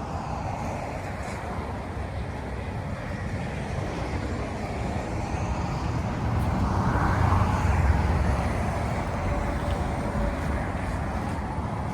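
A vehicle passing: its engine rumble and tyre noise grow louder to a peak about seven to eight seconds in, then fade.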